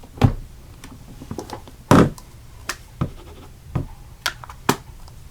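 Stamping supplies being handled on a craft desk: a string of light knocks and clicks, the loudest about two seconds in.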